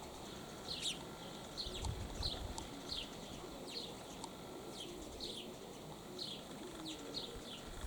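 Small birds chirping: short, high, falling chirps about two a second, over a low rumble of wind on the microphone.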